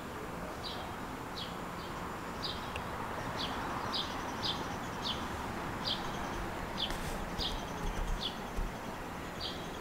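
A small bird chirping over and over in short, high chirps, about one or two a second, over a steady background hiss.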